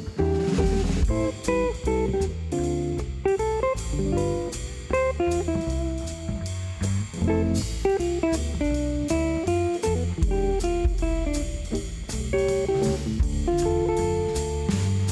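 Instrumental band music in a blues style, led by guitar over bass and a drum kit keeping a steady beat.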